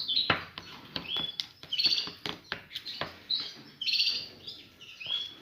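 Caged finches chirping, with short bursts of rapid high notes every second or so and scattered sharp clicks.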